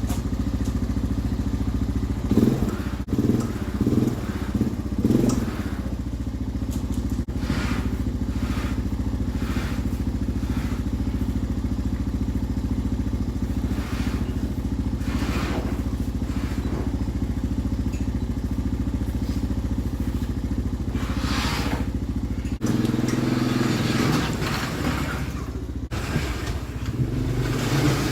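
Snowmobile engine running, with short blips of throttle a few seconds in and again about 21 seconds in; the engine note changes abruptly about 23 seconds in.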